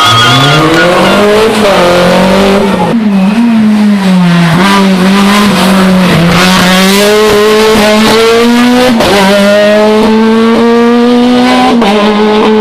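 Rally car's engine revving hard on a special stage, pitch rising in the first second and then holding high with dips, broken by sharp cracks about every three seconds, with some tyre squeal.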